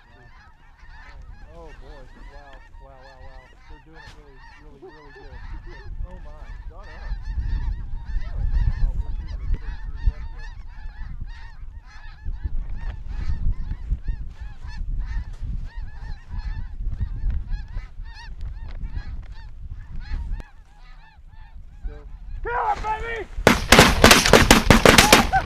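Snow goose calling: a constant chatter of many yelping honks. Wind rumbles on the microphone through the middle. Near the end the calling becomes much louder and closer.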